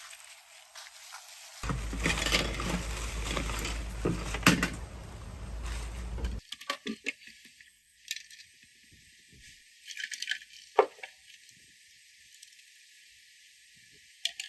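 Small metal parts clinking and rattling as they are handled, with a few sharp knocks. In the first half this sits over a few seconds of dense, rumbling handling noise.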